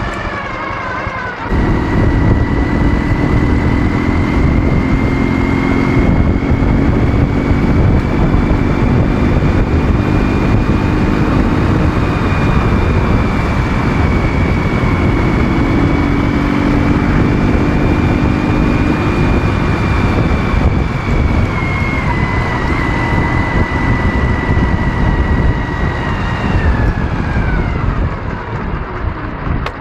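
Ural motorcycle with its 650 cc flat-twin engine under way: engine and wind noise, getting louder abruptly about a second and a half in. A thin high whine runs over it, rising slightly and then dropping away near the end.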